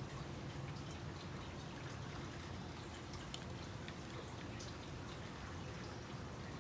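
Faint, scattered light ticks and crackles of basket-weaving material being handled and worked, over a steady low hum.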